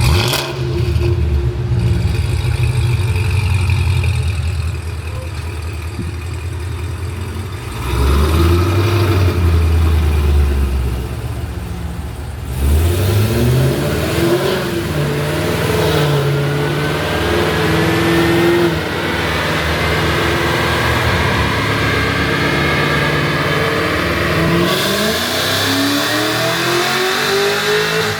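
Supercharged 6.2-litre V8 of a Cadillac CT5-V Blackwing breathing through Kooks long-tube headers and an X-pipe. It idles with a deep rumble, is revved once, then pulls hard, its pitch climbing in several sweeps that drop back and rise again.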